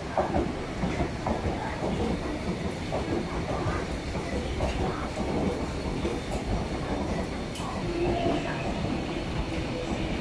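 R-Train electric multiple unit running along the track, heard from inside the carriage: a steady rumble of wheels on rail with scattered clicks over the rail joints.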